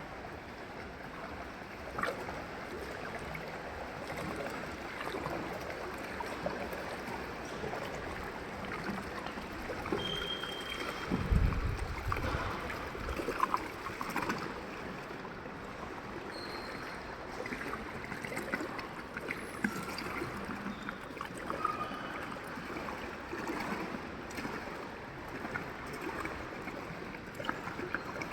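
Pool water splashing and trickling, with scattered small splashes and knocks and a brief low thump about eleven seconds in.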